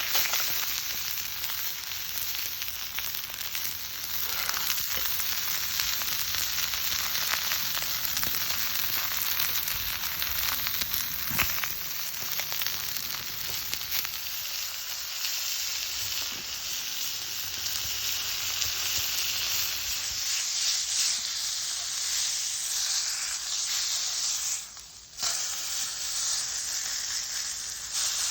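Chicken sizzling and spitting in a Turk iron frying pan over a campfire, a steady crackling hiss that drops away briefly once near the end.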